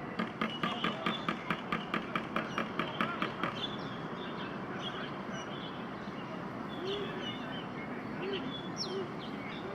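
Fast, even clapping, about five claps a second for roughly three and a half seconds, which then stops, leaving a murmur of distant voices and faint bird chirps.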